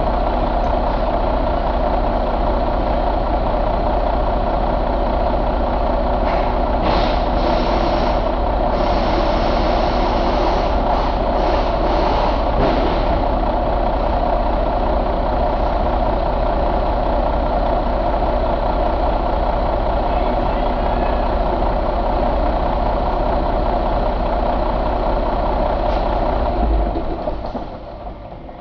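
Detroit DD13 inline-six diesel engine running steadily at idle, then shut off near the end, the sound dropping away sharply.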